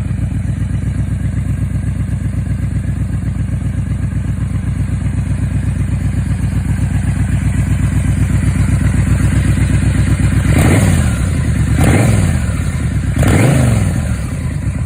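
Yamaha Royal Star V4 engine breathing through Cobra turnout mufflers, idling with a steady pulsing note, then revved three times near the end, each blip rising and falling back in pitch.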